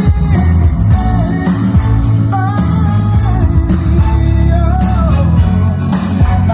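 A rock song with a sung vocal and heavy bass, played loud through a two-way PA speaker system tuned with a DSP.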